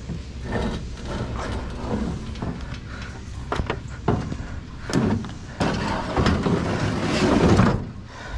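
A heavy piece of scrap being wrestled onto a truck bed: a run of knocks and bumps, then a louder, longer scraping clatter about seven seconds in.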